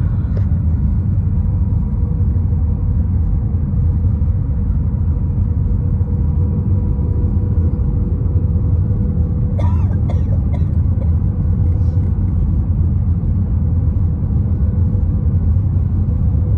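Steady low cabin rumble of an Airbus A320 in flight on its descent, engine and airflow noise with a faint steady hum over it.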